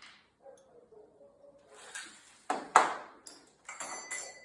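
Metal ceiling-fan mounting parts being handled and fitted: a few sharp clanks and clicks, the loudest a little under three seconds in, with a brief metallic ring near the end.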